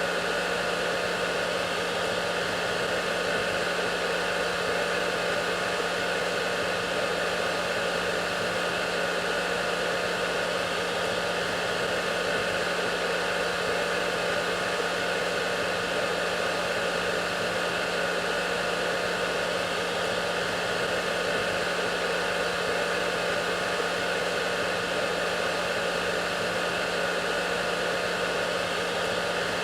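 Hair dryer running steadily: an even rush of blown air with a steady motor hum, unchanging throughout.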